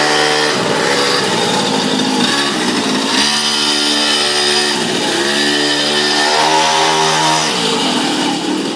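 Mini motorcycle's small engine running as it is ridden, revving up, holding and easing off several times, with its pitch rising and falling.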